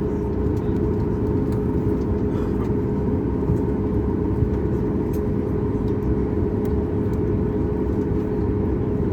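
Steady drone of a Boeing 737 MAX 8's CFM LEAP-1B engines and airframe, heard from inside the cabin: a low rumble with a constant hum that does not change in pitch or level.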